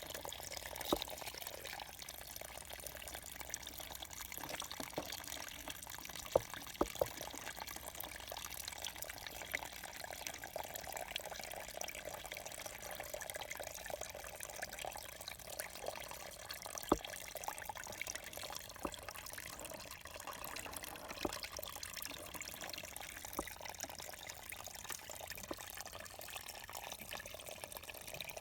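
Water trickling and splashing steadily, with scattered sharp clicks or knocks.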